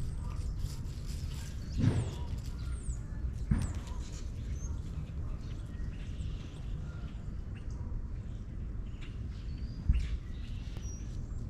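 Small birds chirping now and then over a steady low rumble. Three dull thumps break in: about two seconds in, again shortly after, and near the end.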